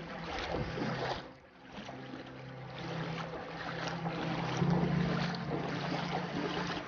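Rushing floodwater with wind on the microphone, over a steady low hum.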